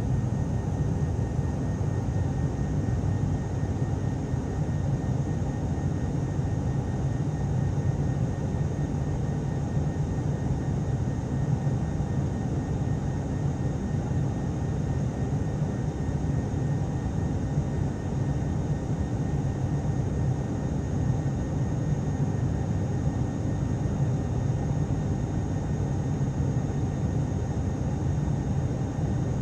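Steady cabin noise of an ATR turboprop airliner in flight: a constant low drone of engines and propellers with airflow hiss and faint steady high-pitched tones.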